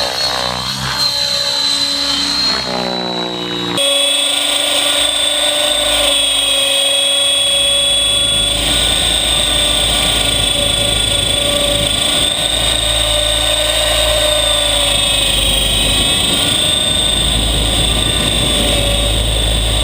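Radio-controlled helicopter flying: a steady, high-pitched whine from its motor and rotors that wavers up and down in pitch as the throttle and blade pitch change. The sound changes abruptly about four seconds in.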